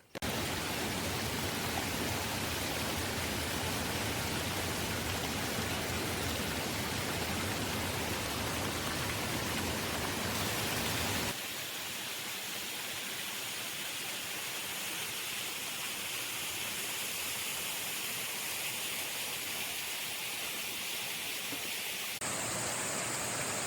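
Waterfall: a steady rush of falling water. About halfway through it cuts to a thinner rush with less low rumble, and near the end it changes again to a hiss with a steady high, even tone on top.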